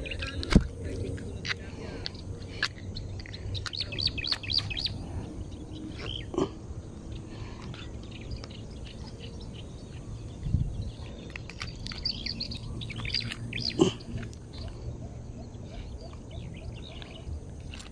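Small birds chirping in quick high runs, about four seconds in and again around twelve to thirteen seconds, over a low steady rumble. A few sharp knocks stand out, the loudest just after the start and about fourteen seconds in.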